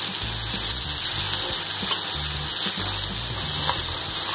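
Chopped tomatoes and green chillies sizzling in ghee in a kadai while a spatula stirs them, with occasional light scrapes of the spatula on the pan. Background music plays underneath.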